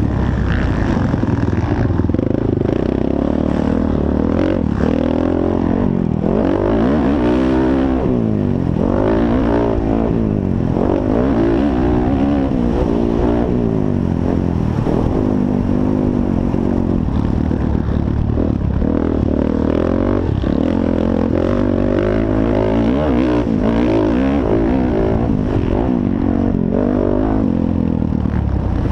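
Motocross dirt bike engines racing, revving up and falling back again and again as the riders work the throttle and shift through the course.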